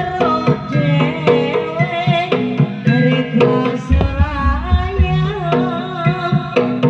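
Jaranan music playing: a hand-drum (kendang) rhythm under a wavering melodic line, with a heavy low pulse coming in about four seconds in.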